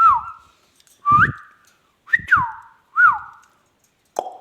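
Indian ringneck parakeet whistling four short notes about a second apart, each sliding in pitch, some rising and some falling. A few sharp clicks come near the end.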